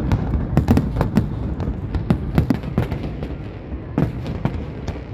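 Fireworks going off: a rapid, irregular run of sharp bangs over a continuous low rumble.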